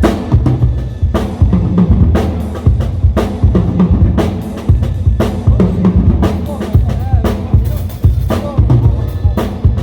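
Drum kit played in a steady groove: bass drum, snare and cymbal hits, repeated several times a second.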